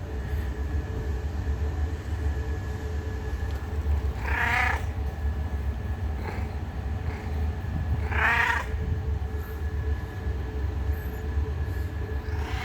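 A cat meowing twice, each meow under a second long and about four seconds apart, with a fainter short call between them, over a steady low rumble.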